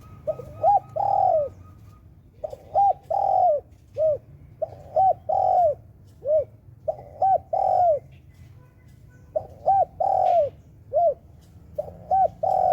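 A dove cooing in repeated phrases, each two short coos followed by a longer drawn-out one, about every two seconds.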